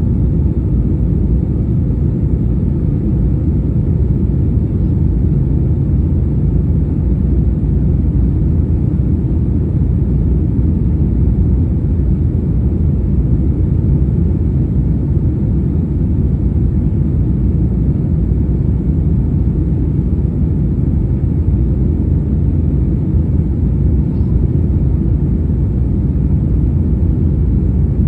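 Airliner's engines and airflow: a steady low rumble that holds even throughout.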